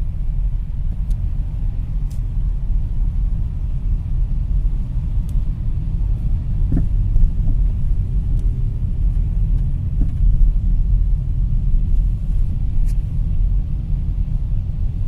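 Steady low road rumble from a moving Hyundai Solaris, broken by a few short knocks from a faulty anti-roll bar (stabilizer) link, clearest about seven and ten seconds in.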